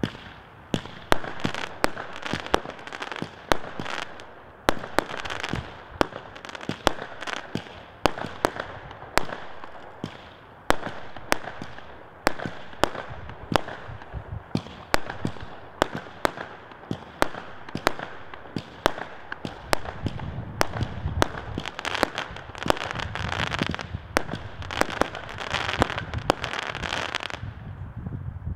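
A 'Nishtyak' multi-shot consumer fireworks battery firing its salvo: sharp bangs come about twice a second, with crackling between them. The crackle grows denser and heavier in the last third, then the battery finishes and the sound stops right at the end.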